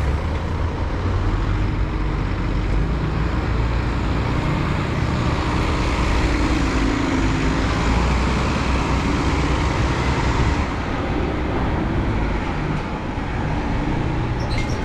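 Road traffic dominated by a bus running close by, a steady low engine rumble that is loudest in the middle and eases off about ten seconds in.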